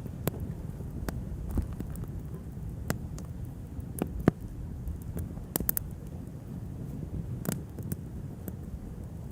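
Wood fire crackling: irregular sharp pops and snaps, the loudest about four seconds in, over a steady low rumble of flame and wind.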